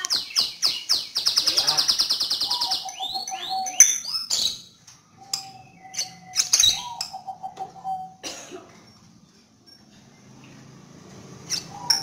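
Caged songbirds chirping and singing. A fast, high trill comes about a second in, lower rattling trills follow at about 3 s and from 5 to 8 s, and sharp chirps are scattered between them.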